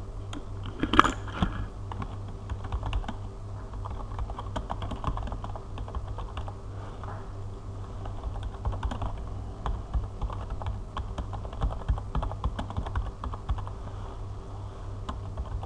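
Computer keyboard typing in irregular runs of keystrokes, with one louder knock about a second in, over a steady low hum.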